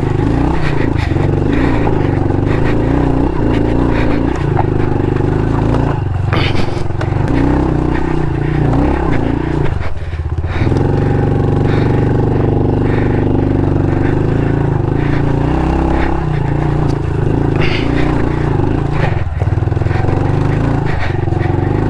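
Honda CRF110 pit bike's small air-cooled single-cylinder four-stroke engine running under load, its pitch rising and falling with the throttle, dipping briefly about ten seconds in before picking up again. A couple of brief knocks cut through it.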